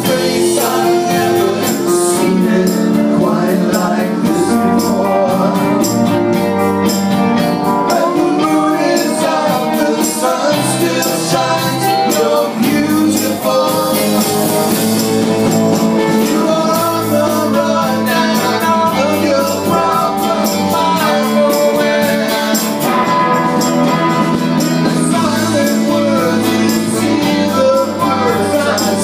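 A rock band playing, with guitar and a voice singing.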